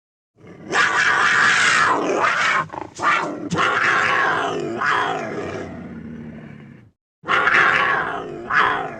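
Creature vocal sound effects for a werewolf character, in two edited clips. The first starts about half a second in and fades over about six seconds. After a brief cut to dead silence, the second starts just past seven seconds.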